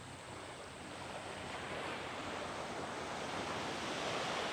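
Waves washing up a sandy beach, a steady rushing wash that builds slowly to its loudest about four seconds in.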